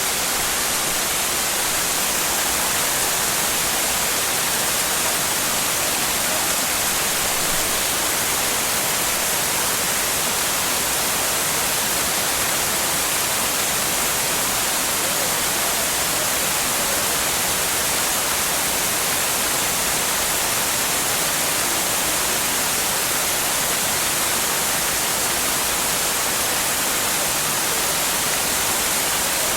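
Shiraito Falls, a waterfall, pouring: a steady, unbroken rush of falling water with a bright, hissy top.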